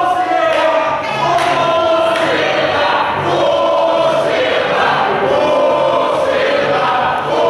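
Many voices singing together in held phrases about a second long.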